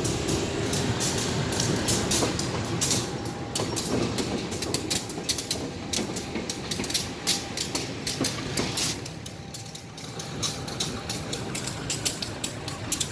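Diesel locomotive running, a steady low rumble overlaid with many irregular sharp clicks.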